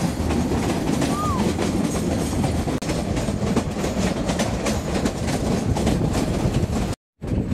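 Meter-gauge passenger train running at speed, heard from beside the coaches: a steady rumble with a rapid clickety-clack of wheels on the track. The sound drops out briefly near the end.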